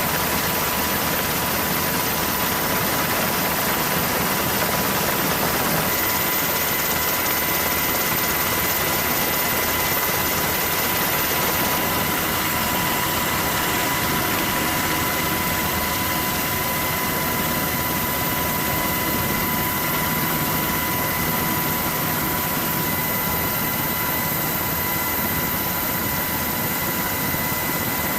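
Aircraft engines running steadily: a loud, even noise with constant high whining tones over it.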